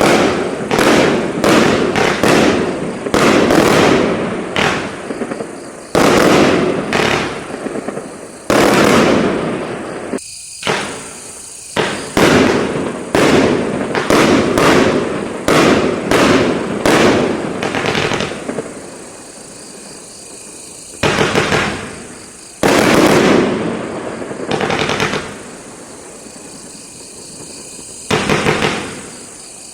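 Firework cake (streetbox) firing a long series of shots, roughly one to two a second. Each is a sharp bang that fades off, with a few short pauses between volleys.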